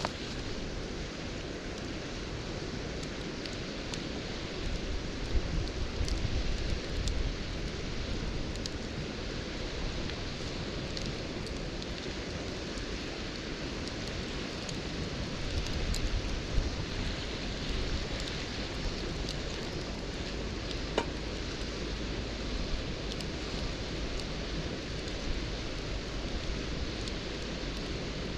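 Campfire burning: a steady hiss with scattered sharp pops and crackles, and a low rumble that swells twice.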